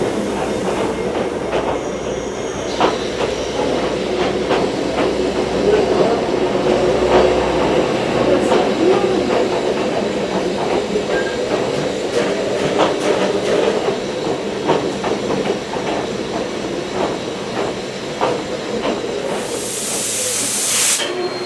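Passenger coach of a steam train running on the rails: a steady rumble and rattle, with wheels clicking over rail joints throughout. A short burst of hiss comes near the end.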